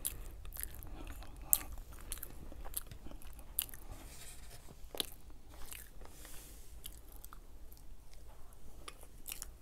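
Close-miked chewing and wet mouth sounds of a person eating red velvet cake with cream cheese icing, picked up by a lapel microphone. Irregular small clicks of a fork run through it, the sharpest about one and a half seconds in.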